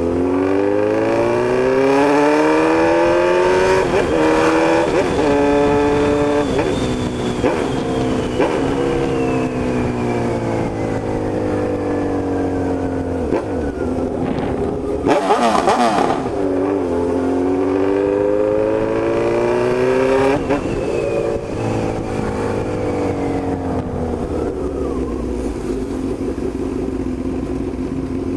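Honda CB1000 inline-four engine and exhaust under way, running loud: the pitch climbs with quick breaks for gear changes, then falls in one long drop as the bike slows. About halfway there is a short rush of noise, then a second climb through the gears, another fall, and a steady lower note near the end.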